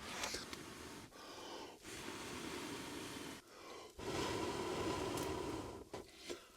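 A person blowing long breaths into a dry-grass tinder bundle to coax an ember into flame: several long blows with short breaks between them.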